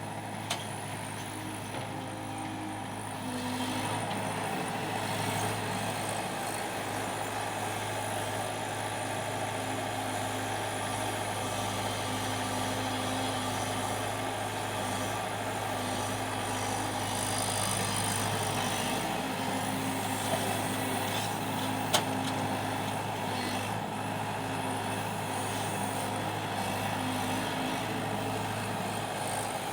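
Diesel engine of a hydraulic excavator running steadily under load as it digs and loads soil onto a truck, getting louder about three and a half seconds in. A single sharp click comes about two-thirds of the way through.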